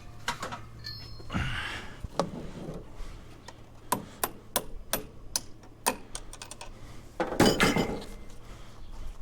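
Hammering and bashing on metal to free a stuck wheel: a series of sharp separate knocks, with a louder, longer clatter about seven seconds in.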